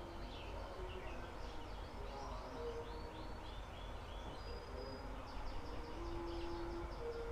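A mantenan gunung songbird singing faintly: a string of short, downward-slurred high notes in the middle, then a quick run of short high notes near the end, about six a second.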